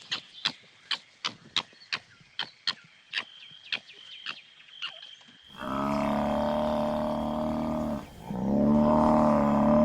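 A run of sharp clicks, about three a second, then a cow mooing twice from a little past halfway: two long, low, steady calls, the first over two seconds long.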